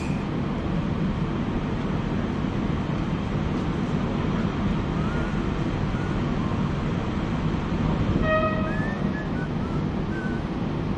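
Steady low rumble of a stationary passenger train idling at the platform, with one short pitched toot about eight seconds in.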